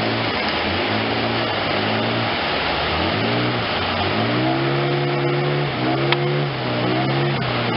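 Outboard motor running on a boat, its pitch rising, holding and dipping with the throttle, over a steady rush of wind and water.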